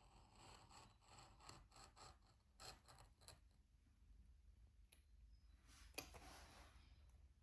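Faint handling sounds of diamond painting work: a quick run of small scraping and rustling strokes with light clicks, then a few isolated clicks and a sharper click with a brief rustle later on.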